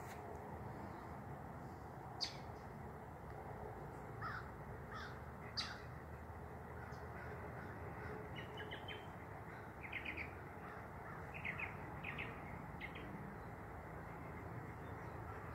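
Birds calling: a few short calls around four to six seconds in, then a run of calls from about eight to thirteen seconds, over a steady outdoor background noise, with a couple of sharp ticks.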